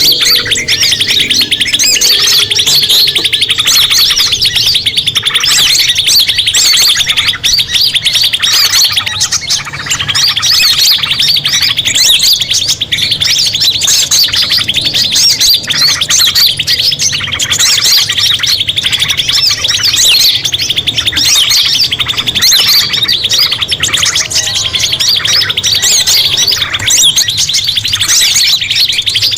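Dense, continuous chorus of small songbirds chirping and trilling rapidly and overlapping, as played on a bird-lure call track.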